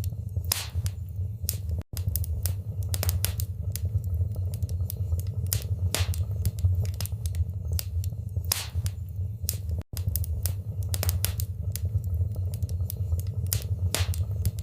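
Wood fire crackling in a fireplace: many irregular sharp pops and snaps over a steady low rumble, with two momentary dropouts to silence, about two seconds in and again about ten seconds in.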